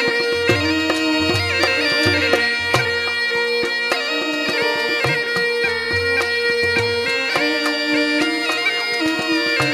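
Rajasthani folk instrumental music: a murli (been), the double reed pipe of the snake charmers, plays the melody over its own steady drone, with kamaicha and morchang, and low drum beats keep a repeating rhythm.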